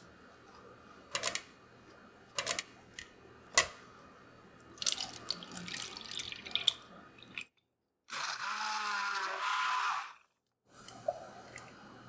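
Kitchen sounds: three sharp clinks, then running and splashing water at a sink, broken by two abrupt cuts to silence.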